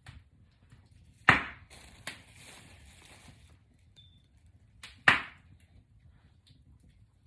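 Two sharp snaps about four seconds apart, each with a fainter click close to it, from the braids being handled during a box braid takedown.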